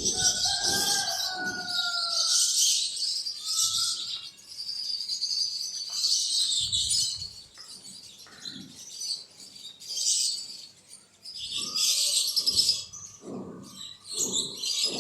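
Many small birds chirping continuously in a dense, high chatter, with lower repeated calls underneath that are strongest near the start and again near the end.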